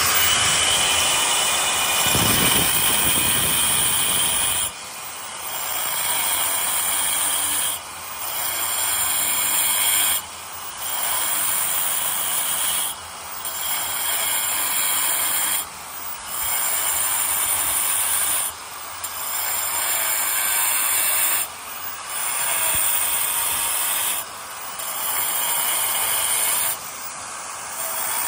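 Power chipping hammer with a 40 mm scaling chisel, hammering wall tiles off their backing. It runs steadily for about five seconds, then in repeated bursts of two to three seconds with brief pauses between them.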